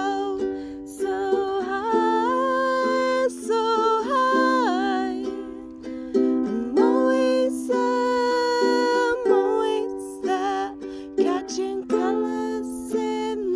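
Ukulele playing chords and a melody in an instrumental passage of a song, with notes that slide up and down in pitch.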